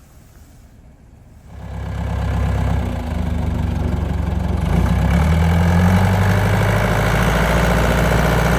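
Bulldozer's diesel engine running. It comes in suddenly about a second and a half in, then rises a little in pitch around the middle and holds steady.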